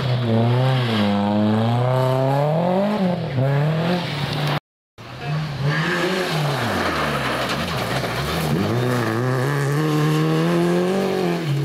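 Rally car engines under hard throttle, the revs climbing and dropping again and again through gear changes and lifts. A hard cut with a moment of dead silence a little under five seconds in, then another stretch of the same.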